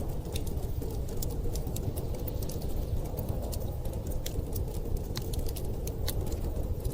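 Wood fire crackling in a fireplace, with frequent irregular sharp pops and snaps, over a steady low rushing of blizzard wind.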